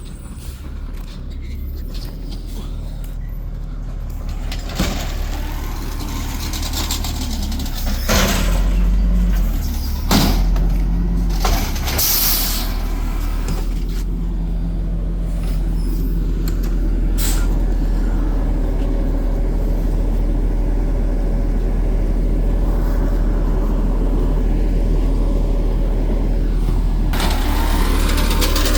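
Garbage truck's diesel engine running steadily, with several sharp air-brake hisses in the middle.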